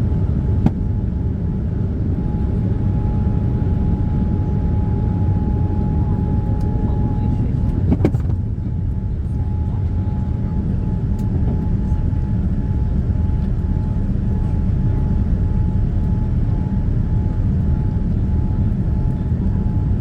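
Boeing 787-9 passenger cabin in the climb after takeoff: a steady low rumble of the jet engines and airflow, with a faint steady high whine over it. A sharp click comes about a second in and a knock about eight seconds in.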